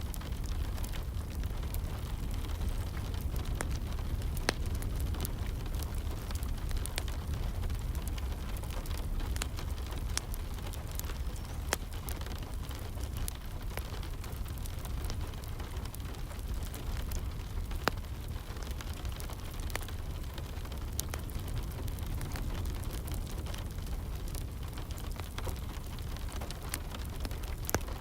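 Wood fire crackling with scattered sharp pops over a steady hiss of rain and a low rumble.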